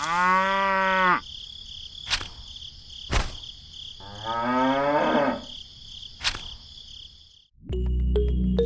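Cattle mooing: one long call at the start and a second, wavering call about four seconds in, with a few sharp clicks between them. Music begins near the end.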